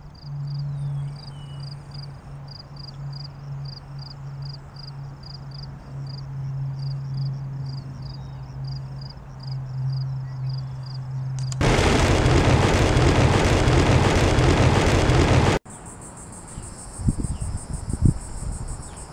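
Insects chirping in a steady pulse, about two to three chirps a second, over a low steady hum. About two-thirds of the way through, a few seconds of loud wind buffeting on the microphone cut in and stop suddenly, and then high insect chirping returns.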